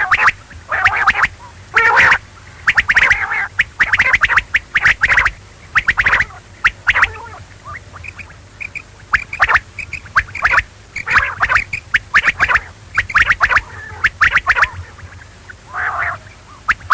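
Quail calling: repeated bursts of rapid, stuttering notes with short pauses between, over a low steady hum.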